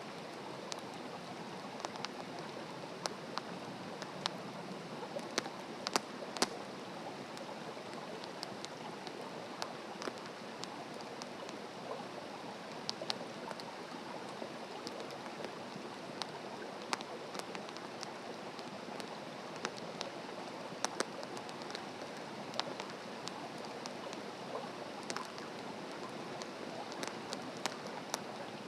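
Wood campfire burning: a steady hiss with sharp, irregular crackles and pops from the burning wood.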